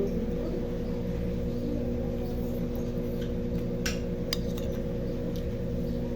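Brastemp BWK17 17 kg washing machine on its spin cycle: a steady motor hum made of several fixed tones. A few brief clicks come about four seconds in.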